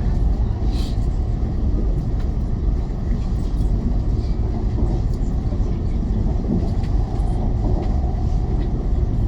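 Cabin noise of a CR400BF-Z Fuxing high-speed train running on the line: a steady, loud low rumble of wheels, track and air, with a few faint clicks.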